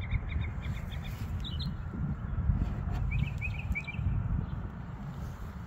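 Small birds chirping in short, quick notes: a run in the first second and a half and another cluster about three to four seconds in, over a steady low outdoor rumble.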